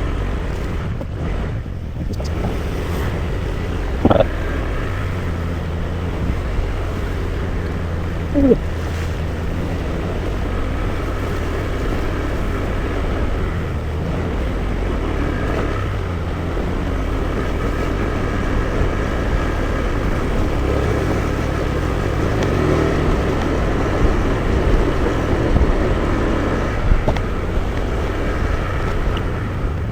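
Rental motor scooter running steadily while being ridden, its engine hum under wind and road noise.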